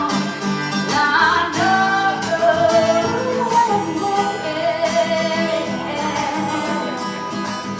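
A woman singing drawn-out, bending notes without clear words over a strummed acoustic guitar.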